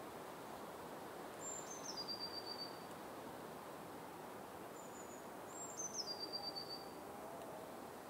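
A bird calling twice, each call a high whistled note that steps down into a rapid trill, over a steady background hiss.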